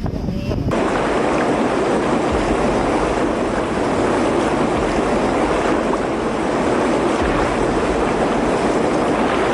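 Steady rushing noise of a mud flow, a torrent of water, soil and rock debris, starting abruptly just under a second in.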